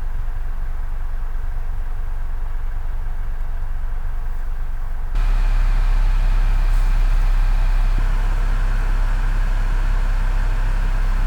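Vehicle driving: a steady low rumble of engine and road noise, which jumps abruptly louder about five seconds in.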